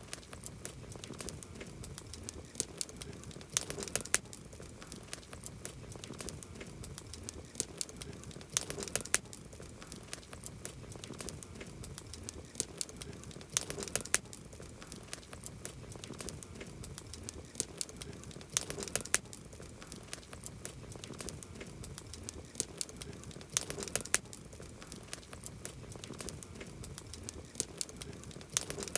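Campfire burning, the wood crackling and popping in many sharp, irregular clicks, with a denser burst of pops about every five seconds.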